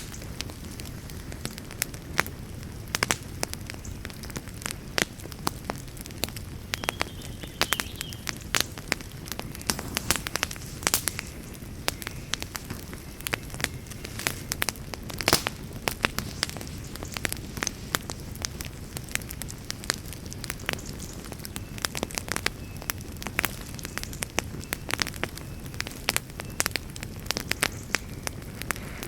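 Campfire crackling: irregular sharp pops and snaps, some louder than others, over a steady low rumble of the burning fire.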